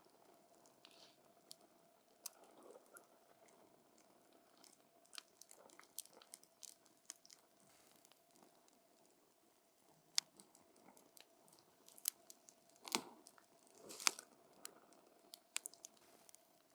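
Wood fire crackling: irregular sharp pops and snaps from the burning wood, with a few louder pops near the end.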